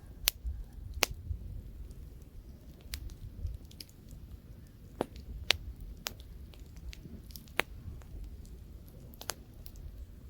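Campfire of burning wood crackling, with sharp pops every second or so, over a low rumble of light wind.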